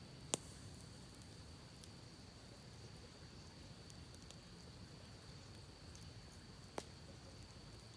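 Campfire crackling faintly: two sharp pops, one just after the start and one near the end, with small ticks between. Under it runs a low steady rush and a steady high-pitched tone.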